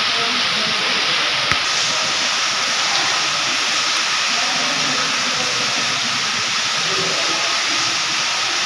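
Heavy rain as a loud, steady, even hiss. A faint steady tone runs through it, and there is a single click about one and a half seconds in.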